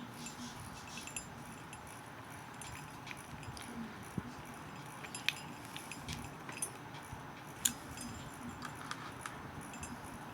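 Scattered light clicks and taps of a small screwdriver and screws against a model locomotive's frame as the motor's mounting screws are put back in, over a steady faint hiss.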